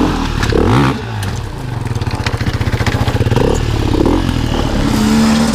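Dirt bike engine revving in bursts and chugging at low revs under load as it is worked over a hard-enduro obstacle, with scattered knocks and clatter.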